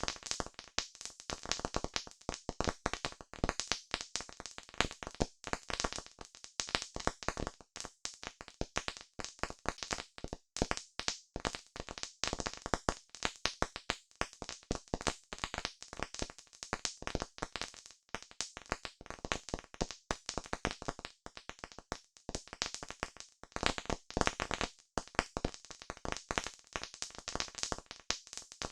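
Campfire crackling: burning wood giving off a dense, irregular run of sharp pops and snaps, many a second.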